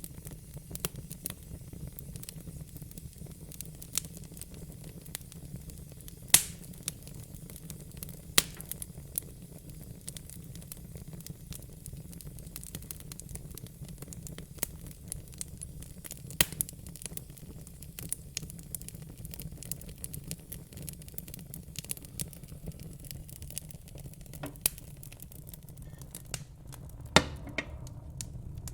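Wood fire in a fire pit crackling, with scattered sharp pops over a steady low rumble; the loudest pops come about six, eight, sixteen and twenty-seven seconds in.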